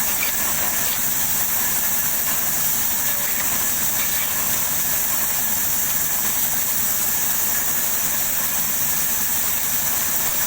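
Sawmill machinery running steadily: a continuous even mechanical noise with a strong hiss, with no breaks or distinct knocks.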